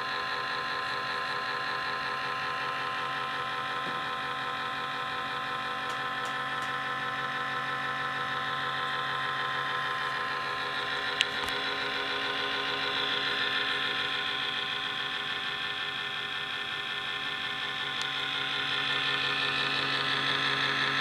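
Laptop cooling fan running loud and steady: a whirring hum with a steady whine, the annoying fan noise of a laptop fan in need of repair. It swells slightly near the end, and there is one short click about eleven seconds in.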